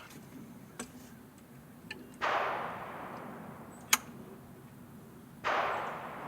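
Two scraping strokes, each starting suddenly and fading out over about a second, with a few sharp clicks between them, the loudest click in the middle.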